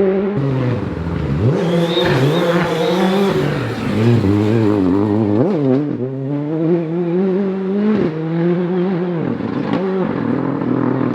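Rally car engine revving hard on a gravel forest stage, its pitch climbing and then dropping sharply several times as the driver shifts gears and lifts off.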